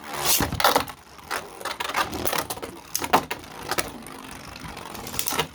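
Spinning Beyblade tops, one of them a 3D-printed custom bey, battling in a stadium: repeated sharp plastic clacks of collisions at irregular intervals over the scraping whir of the spinning tops.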